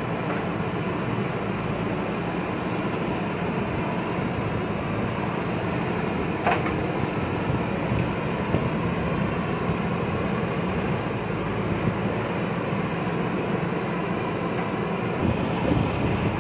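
JCB backhoe loader's diesel engine running steadily while it works, with one brief sharp sound about six and a half seconds in.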